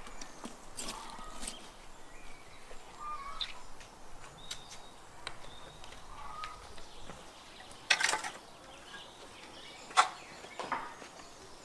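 Knife work on raw ostrich meat: scattered clicks and knocks, with two sharp knocks about eight and ten seconds in. Birds chirp briefly in the background.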